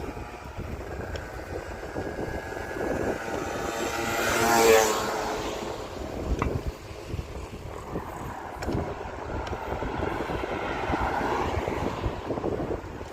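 A motor vehicle passes close by: its engine sound swells to a peak about four and a half seconds in, then drops in pitch and fades as it goes by. Wind and rolling noise from the moving bicycle run underneath.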